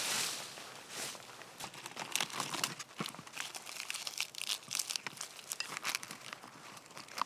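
Dry forest floor material being pulled up and handled by hand: a dense run of crackling, crinkling and tearing sounds.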